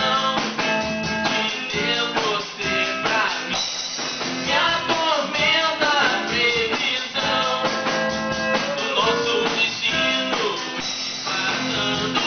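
Amateur band jamming live in a loose, improvised rock-blues style: guitar and drums with a voice singing over them.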